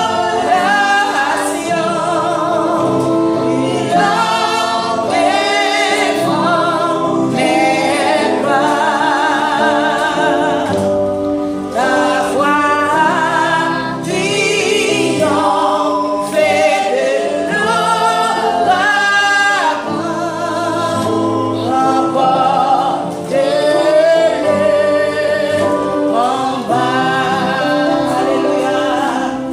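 A woman and a group of children singing a gospel praise song together, the melody moving continuously with steady low notes underneath.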